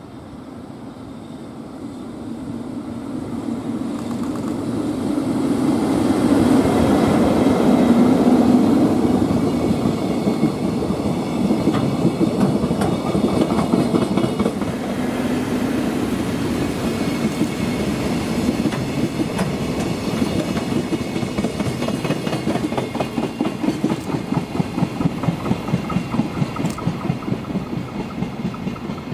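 EF65 electric locomotive hauling four empty Koki container flatcars past at speed: a rising rumble that is loudest as the locomotive goes by about eight seconds in, then the flatcars' wheels clattering over the rail joints in a regular clickety-clack that fades near the end.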